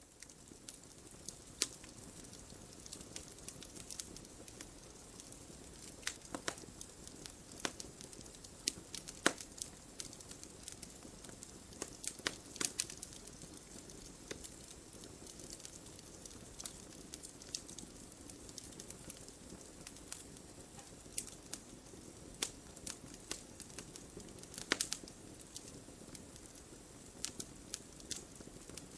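Wood fire burning in a fireplace: a steady low hiss of flames with sharp, irregular crackles and pops from the burning logs.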